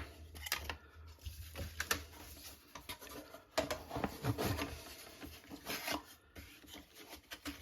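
Irregular scraping and light ticks on thin plywood as small leftover bits are trimmed off model-kit deck parts.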